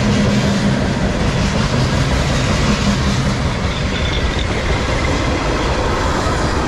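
Freight cars of a long, mostly empty CSX manifest train rolling past, a steady rumble and clatter of steel wheels on rail. A brief, faint high squeal comes about four seconds in.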